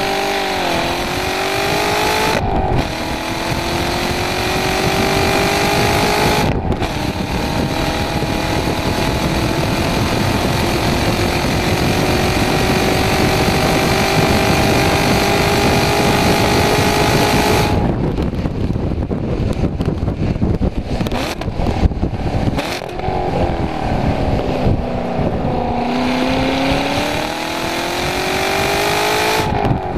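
2017 Chevrolet Corvette Grand Sport's 6.2-litre V8 heard from inside the cabin under hard acceleration on track: two quick upshifts in the first seven seconds, then a long pull with the engine note rising steadily. About eighteen seconds in the note drops away as the driver lifts off, with scattered crackles, then the revs sink low and climb again.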